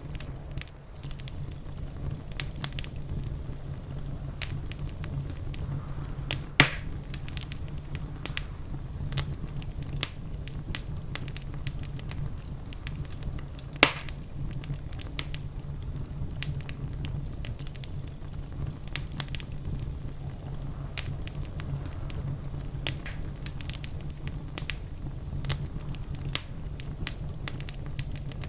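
Wood fire burning in a fireplace, crackling steadily over a low rumble, with irregular small pops and two louder sharp pops, about a quarter and about halfway through.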